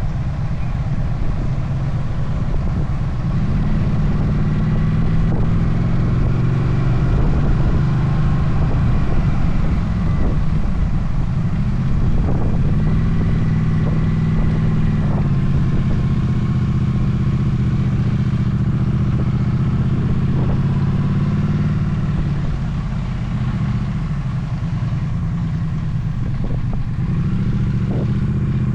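Motorcycle engine running while riding on the road, its note rising and falling several times as speed changes, over a steady low rumble of wind and road noise.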